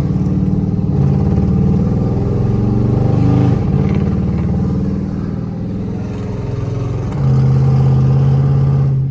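Dodge SRT8 392's 6.4-litre HEMI V8 running while driving, rough with a misfire that the owner links to cylinder 4 and fouled spark plugs and suspects comes from the lifters or heads. The engine note shifts a little in pitch and grows louder about seven seconds in.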